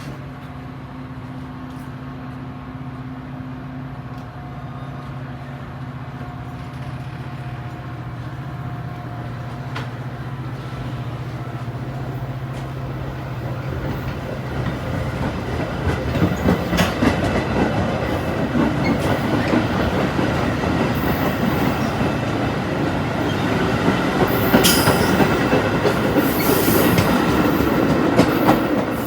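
Metra commuter train led by an F40PH-3 diesel locomotive: a steady low engine hum, then growing rumble and clickety-clack of wheels over the rails, louder from about halfway through, with high-pitched wheel squeal in the last few seconds.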